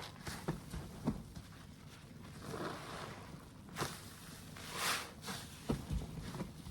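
A soapy wet sponge being squeezed by hand, squelching in two slow swells about halfway through and near the end, with scattered small wet pops and crackles of bursting suds.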